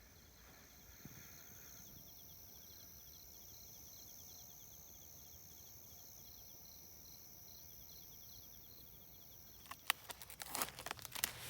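Crickets and other autumn insects chirping steadily in fast, repeated trills. Near the end, a run of sharp crackling and rustling clicks.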